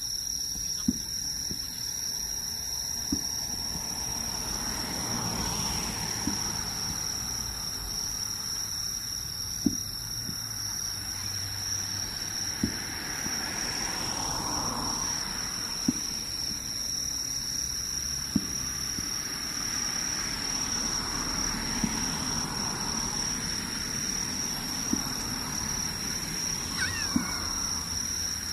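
Fireworks shells bursting in the distance, about ten dull bangs spaced roughly every two to three seconds. Under them runs a steady, high-pitched insect trill, like crickets.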